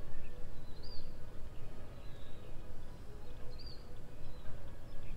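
A bird calling, three short high chirps spaced a second or more apart, over a gusty low rumble of wind on the microphone.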